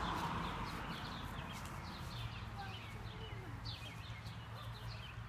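Birds chirping, many short calls one after another, over faint outdoor background noise; a low steady hum comes in about two seconds in.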